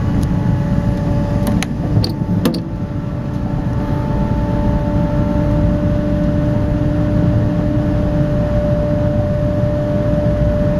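Cabin noise of a Shinkansen high-speed train accelerating away from a station: a steady low rumble with electric motor tones that creep slowly upward in pitch as it gathers speed. A few sharp clicks come about one and a half to two and a half seconds in.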